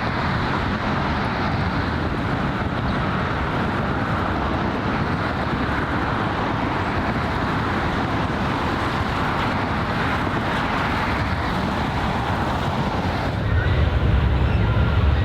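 Steady outdoor waterfront ambience: an even rumble and hiss of distant harbour traffic with wind on the microphone. About thirteen seconds in it turns louder, with a stronger wind rumble.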